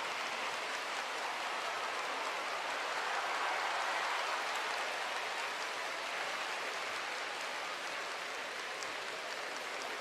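A studio audience applauding steadily, swelling a little midway.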